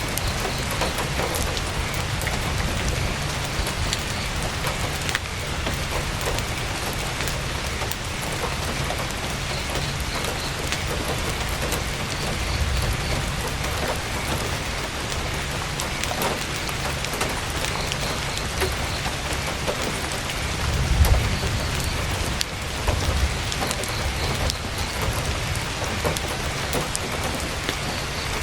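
Heavy rain pattering steadily on a tent, with many fine sharp drop impacts and a low rumble underneath that swells briefly a few times, most strongly a little past two-thirds of the way through.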